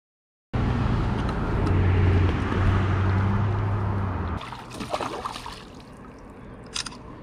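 A boat motor runs with a steady low hum over water noise, then cuts off sharply about four seconds in. Quieter water trickling and a few small clicks follow.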